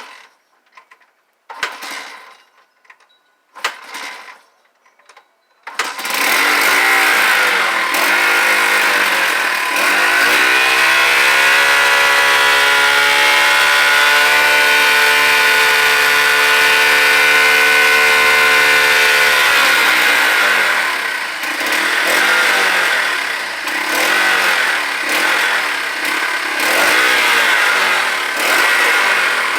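1990 80R dirt bike engine started cold after sitting since the summer: two short bursts, then it catches about six seconds in and runs. It holds a steady high idle for about ten seconds, then the throttle is blipped up and down through the rest.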